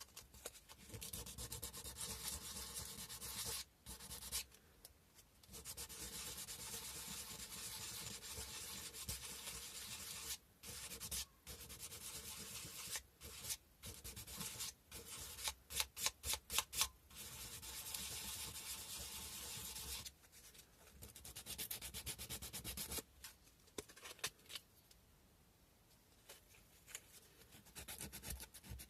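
Sandpaper being rubbed by hand over a cow-bone fish hook: runs of back-and-forth sanding strokes broken by short pauses. About halfway through there is a quicker run of separate strokes, about four a second, and the rubbing is quieter near the end.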